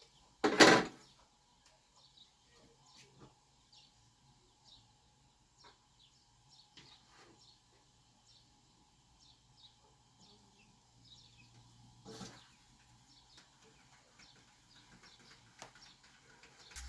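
Small birds chirping faintly and repeatedly, with a loud knock about half a second in and a softer knock about twelve seconds in.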